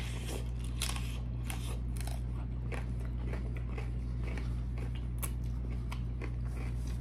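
Close-up crunching and chewing of a crisp tostada topped with shrimp ceviche, many irregular crunches in quick succession. A steady low hum runs underneath.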